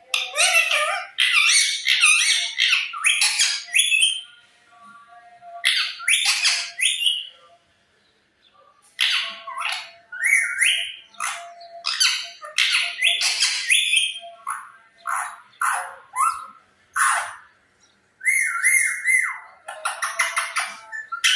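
Pet parrot squawking and calling in a string of short, loud bursts, broken by a few brief pauses.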